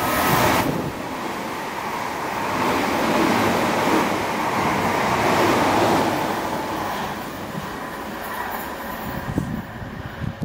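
Southeastern Networker electric multiple unit passing the platform at speed without stopping: a loud rush of wheels on rail that builds over the first few seconds and dies away over the last few.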